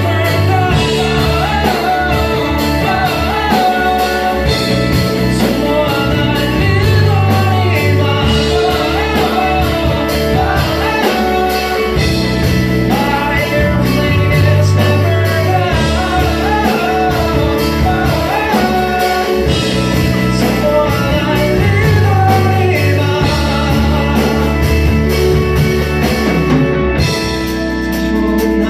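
Live rock band performance: a sung vocal melody over electric guitar, bass and drums.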